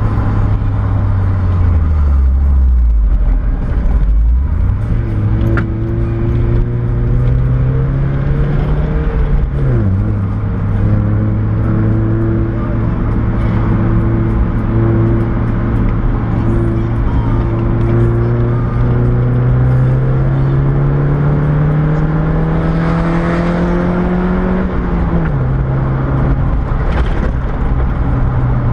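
Mazda MX-5's four-cylinder engine heard from inside the cabin while driving. Its note sinks, then picks up again about four seconds in. It drops sharply at a gear change about ten seconds in, holds steady, climbs slowly, and drops at another gear change near the end, over steady road noise.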